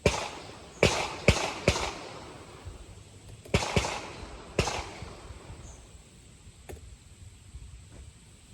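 Ruger AR-556 rifle fired six times at a cardboard box target: one shot, then three in quick succession, then two more spaced about a second apart, each with a short echoing tail.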